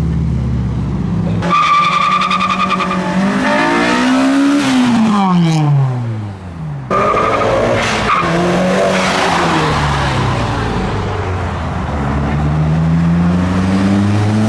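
Modified car engines revving and driving past, their pitch climbing and dropping with the throttle, with a high whine in places. Cut short twice by edits.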